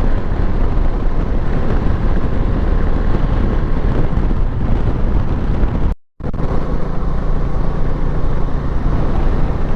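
Wind rushing over the microphone together with motorcycle engine and road noise while riding at speed. The sound cuts out abruptly for a moment about six seconds in.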